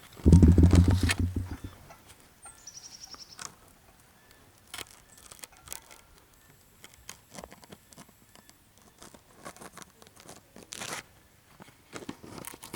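A brief low rumbling burst on the microphone at the start, then faint scattered crackles and clicks, with a short high chirp about three seconds in.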